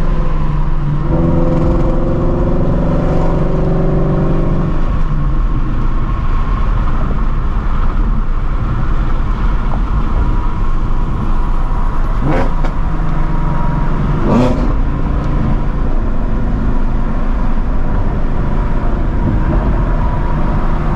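Straight-piped Ford Mustang Shelby GT350's 5.2-litre flat-plane-crank V8, with long-tube headers, running at a steady cruise with an even exhaust note. Two short, sharper noises cut in about twelve and fourteen seconds in.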